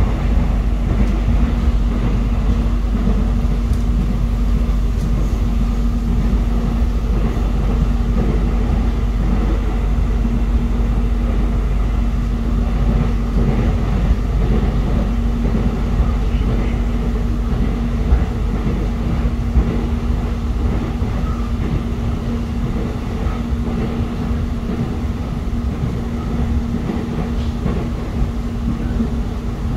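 Inside a moving electric airport train: steady rumble of the running train with a constant low hum throughout.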